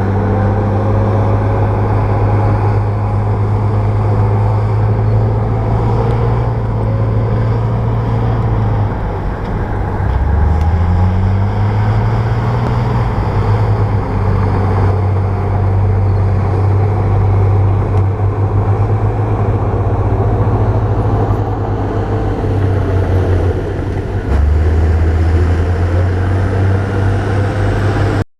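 Bulldozer's diesel engine running under load, steady for long stretches; its pitch drops about a third of the way in and climbs back up, and drops again near the end.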